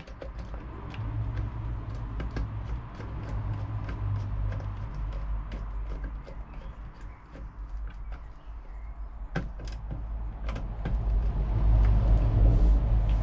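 Small scattered clicks and scrapes of a screwdriver and plastic plug parts as the live wire is secured in a three-pin mains plug, over a steady low rumble that grows louder near the end.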